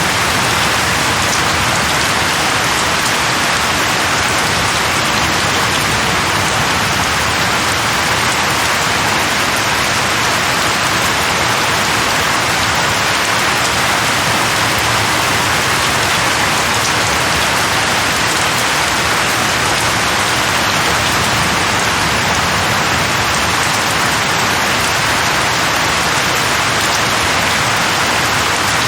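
Steady, heavy rain falling on a surface, an even hiss of dense drops with no breaks.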